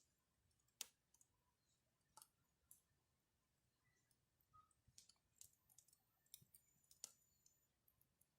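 Faint, irregular crackling and popping of a wood campfire: scattered sharp snaps, the strongest about a second in and again near seven seconds.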